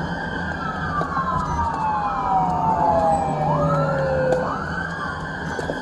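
Police car sirens wailing, at least two of them, their pitch sliding slowly down and back up out of step with each other, over the low rumble of the vehicle on the road.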